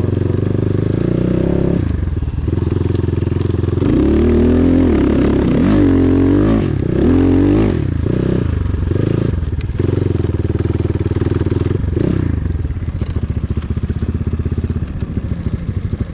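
Enduro motorcycle engine running close by, blipped up and down several times between about four and nine seconds in, then settling back to a steady idle.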